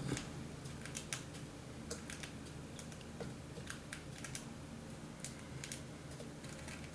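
Faint, irregular light clicks and taps, a couple of dozen scattered unevenly, over a steady low hum.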